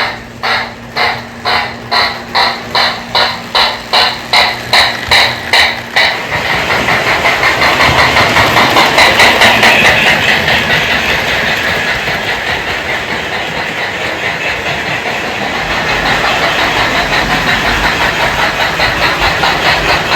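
Lionel Sound of Steam board chuffing through the tender's higher-ohm speaker on an MPC-era O gauge train as it runs. The chuffs come evenly at about two and a half a second over a steady hum, then about six seconds in they quicken into fast, almost continuous chuffing.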